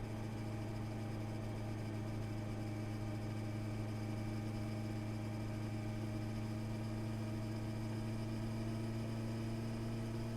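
Honda CB650R's inline-four engine running at a steady, unchanging engine speed.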